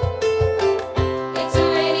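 Live band playing a song, with held instrument notes over bass and a drum beat about twice a second; cymbals brighten the sound near the end.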